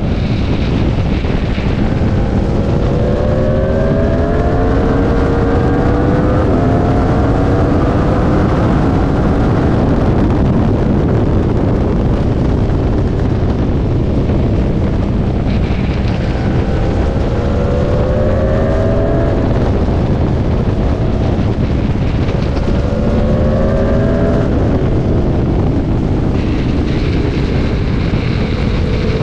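Aprilia Tuono V4 RR's V4 engine at racing speed, pulling hard through the gears: several runs of rising pitch, each cut short by an upshift and climbing again. Heavy wind rush on the microphone throughout; for a few seconds around the middle the engine pitch sinks under the wind, as when braking or rolling through a corner.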